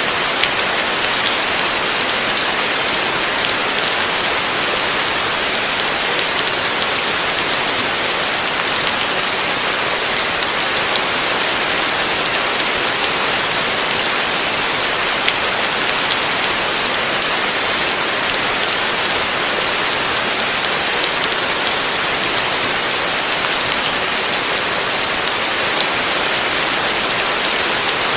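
Heavy rain falling steadily on a roof: a dense, even hiss with faint scattered drop ticks.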